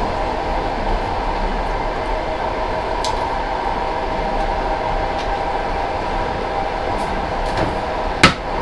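Steady running noise of a passenger train heard from inside the carriage, with a low rumble and a steady hum, a few light clicks, and one sharp knock near the end.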